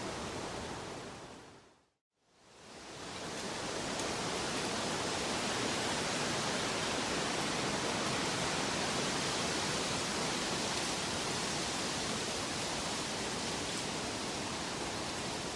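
A steady, even rushing noise from a relaxation soundtrack that fades out to silence about two seconds in, then fades back up and holds steady.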